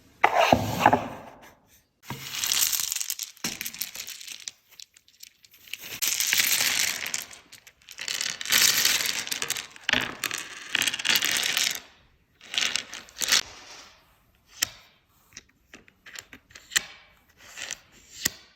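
Wrapping material being torn and crumpled in repeated rustling bursts, followed near the end by a run of short light clicks and taps.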